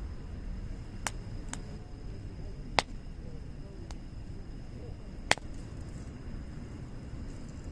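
Wood fire crackling, with five sharp pops from the burning firewood (the loudest two about three and five seconds in) over a low steady rumble of the flames.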